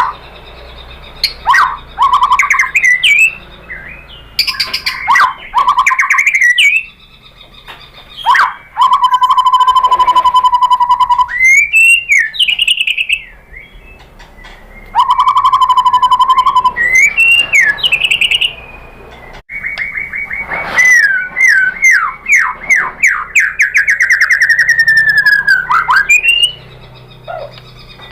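White-rumped shama singing loudly: a varied song of whistled glides and sweeps, broken by harsh rattling chatters and a long run of rapid falling notes.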